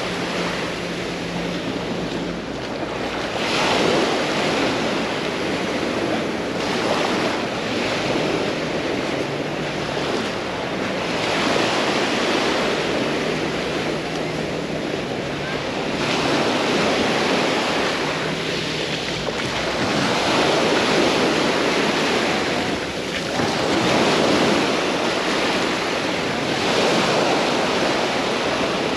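Small sea waves breaking and washing up on a sandy beach, the surf swelling and fading every few seconds, with some wind buffeting the microphone.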